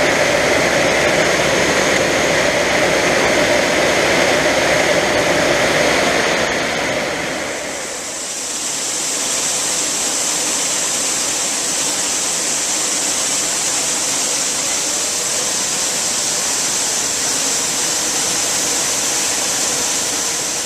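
John Deere 7800 tractor's diesel engine running at high revs to power a grain cart's unloading auger, with a steady rushing of soybeans flowing out. About seven seconds in, the engine tones fade and a higher, even hiss takes over.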